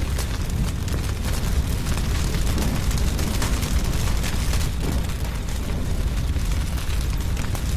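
Wood fire burning: a steady low rumble of the flames with frequent crackles and snaps of burning wood, a few louder pops among them.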